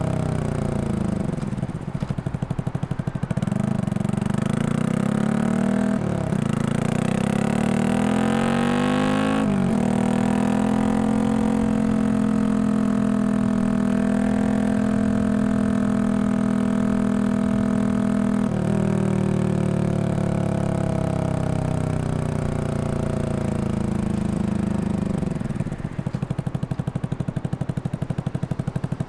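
Single-cylinder engine of a Yamaha XSR155, bored up to 183cc and breathing through a Norifumi full exhaust, under way. The revs climb, drop at a gear change about six seconds in, and climb again. After another shift it holds a steady cruise, then the revs fall off as the bike slows, ending in an uneven, pulsing idle near the end.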